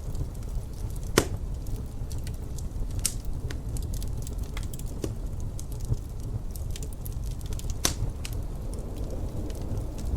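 Wood fire crackling with many small snaps and a few louder pops, the loudest about a second in and near eight seconds, over a steady low rumble of wind.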